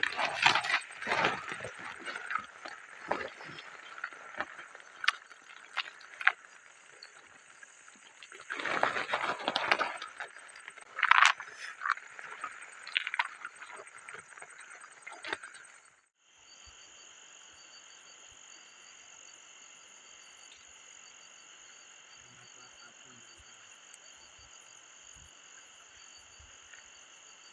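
Steady night chorus of frogs and insects, with irregular knocks, rustles and scrapes of handling over it for the first half. About halfway the handling noise cuts off, and only the steady chorus in several high pitches remains.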